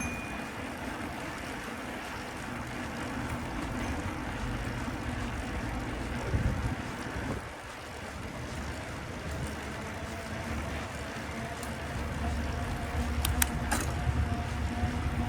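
Street noise heard from a moving bicycle: wind rumbling on the microphone with traffic passing. A steady hum comes in a few seconds before the end, along with a few sharp clicks.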